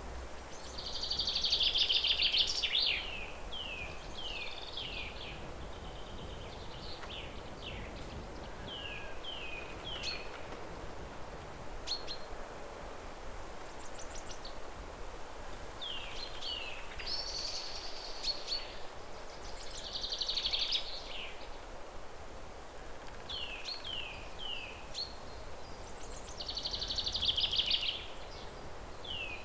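Songbirds singing: short repeated descending chirps and three louder trilled bursts, over a steady outdoor hiss.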